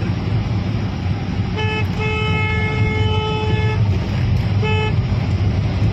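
Vehicle horn sounding three times, a short toot, a long held blast of nearly two seconds, then another short toot, over a steady low rumble of engine and road noise from a vehicle on the move.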